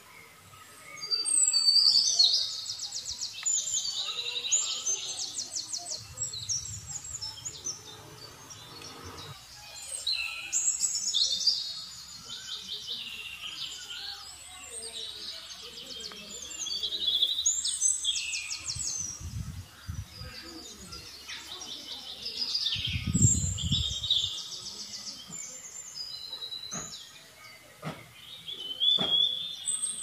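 A songbird singing loud, quickly trilled phrases of two to three seconds, repeated about every six seconds. There are a couple of brief low rumbles in the second half.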